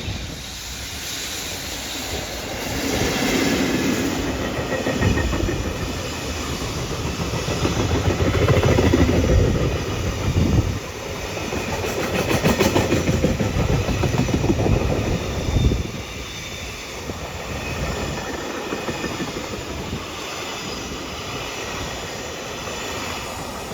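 Freight train of container wagons hauled by an EF65 electric locomotive passing close by, its steel wheels rumbling and clacking rhythmically over the rail joints. It grows louder through the middle and eases off after about two-thirds of the way through.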